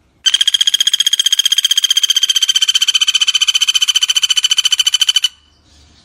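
Pelatuk bawang woodpecker calling: one long, even rattling trill of about a dozen sharp notes a second, lasting about five seconds and then stopping abruptly.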